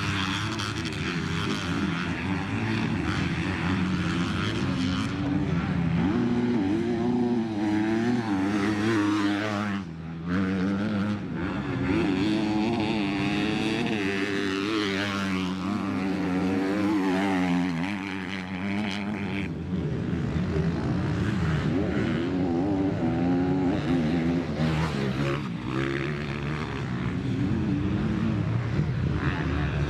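Motocross dirt bike engines running and revving, their pitch rising and falling again and again as the bikes accelerate and ease off, with more than one engine heard at once.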